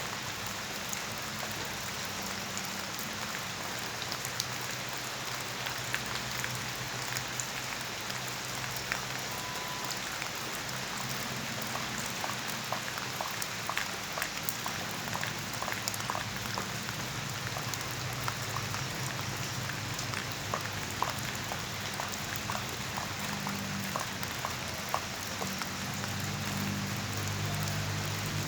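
Steady rain, with many individual drops ticking sharply on a hard surface over an even hiss.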